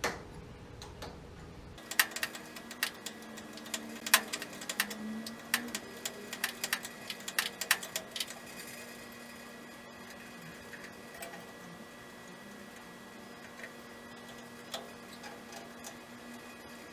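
A run of irregular sharp clicks and taps, about six seconds of them, which then thin out to a few scattered ones, over a faint steady hum.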